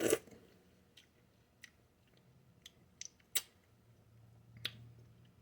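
A few light, sharp clicks and taps, about six spread over five seconds with the loudest a little past halfway, from cutting and eating a piece of canary melon.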